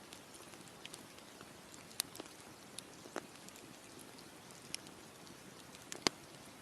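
Wood campfire crackling: scattered sharp pops and snaps at irregular intervals, the loudest about six seconds in, over a steady soft hiss.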